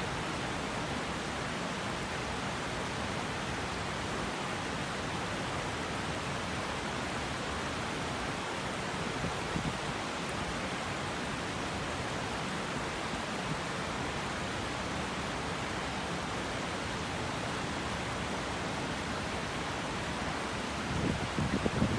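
Okurushibe River running steadily, an even rush of flowing water. Near the end, a few louder low bumps of wind buffeting the microphone.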